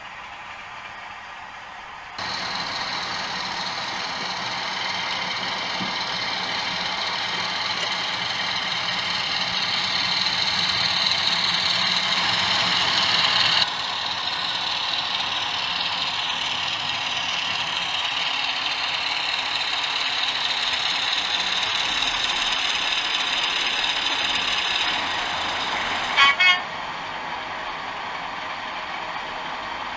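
DCC sound decoder in an OO gauge model locomotive playing a steady running sound of many tones, which starts suddenly and slowly grows louder, then changes abruptly midway. Two short loud horn toots come near the end.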